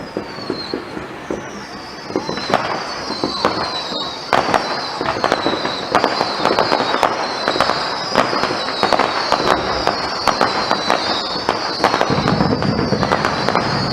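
Firework display: a dense run of sharp bangs and crackles with many overlapping high whistles falling in pitch, growing louder and busier about two and then four seconds in.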